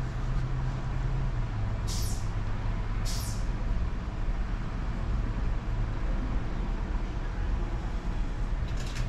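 A car engine idling steadily, with two brief high-pitched sounds about two and three seconds in.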